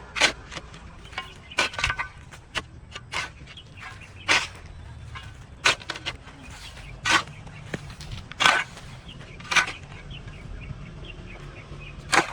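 Repeated short swishing strikes of a hand tool cutting through overgrown grass and weeds, about one every second, irregularly spaced, with a few smaller clicks between them.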